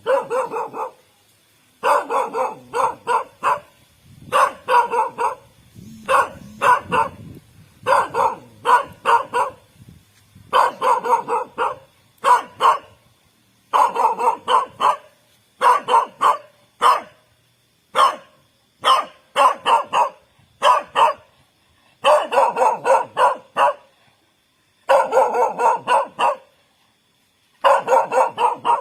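A dog barking in rapid bursts of three to six barks each, with short pauses between the bursts.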